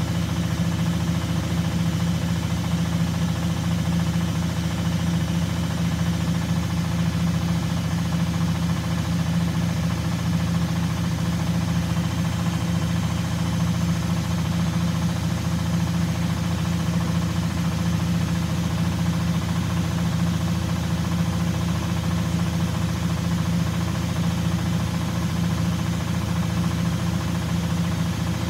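Washing machine spinning at a steady speed: a constant motor hum that holds one pitch throughout.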